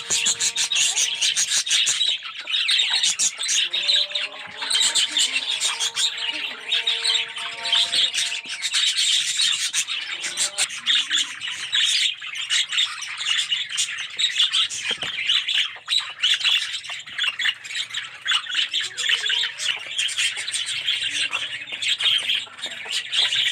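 A flock of budgerigars chattering and chirping continuously: dense, rapid, overlapping high calls with occasional lower warbling notes.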